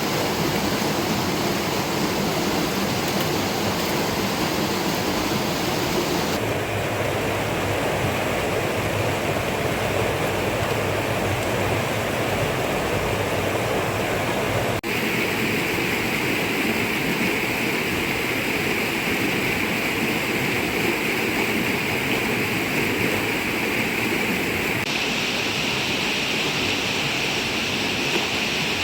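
Steady rush of water: rainfall and river flow. Its tone shifts abruptly three times, about 6, 15 and 25 seconds in.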